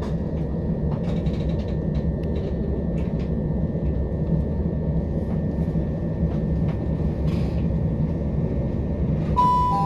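Steady rumble of a passenger train running, heard from inside the carriage. Near the end, a two-note falling chime from the on-board announcement system sounds ahead of a passenger announcement.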